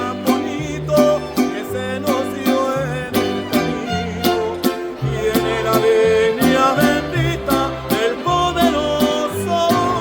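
Mariachi band playing: strummed guitars keep a steady rhythm over a bass line that moves in steps, with a wavering melody line above.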